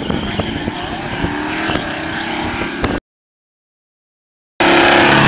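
Two drag-racing cars' engines running and revving at the start line. After about three seconds the sound cuts off abruptly to dead silence, then comes back louder near the end.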